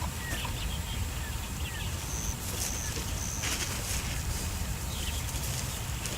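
Wind rumbling on the microphone, with birds chirping now and then and a few short high-pitched calls in the middle.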